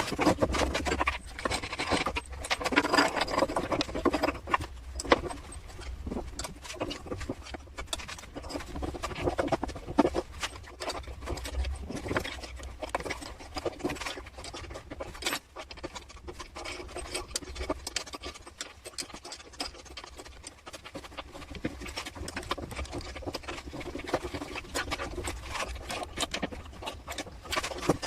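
Workshop hand work: irregular scraping and rubbing with many small clicks and knocks.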